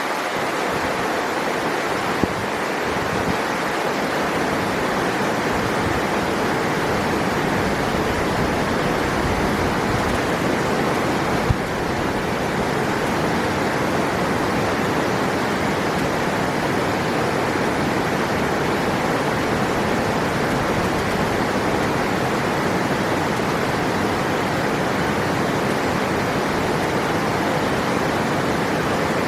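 River water rushing in a steady, unbroken flow, with one brief click about eleven seconds in.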